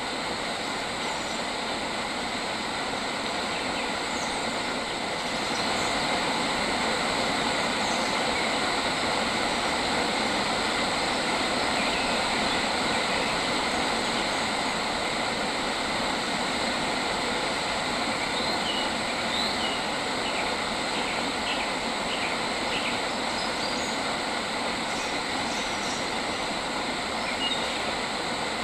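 Steady outdoor nature ambience: an even rushing noise that swells a little about five seconds in, with a few short, faint bird chirps about two-thirds of the way through.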